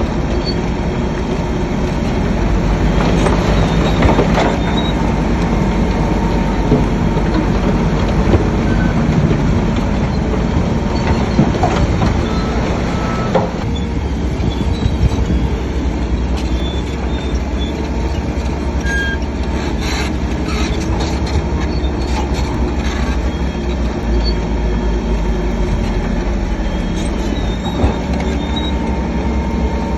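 Shantui crawler bulldozer at work: its diesel engine runs under load while the steel tracks clank and give short squeals. The sound eases somewhat about halfway through.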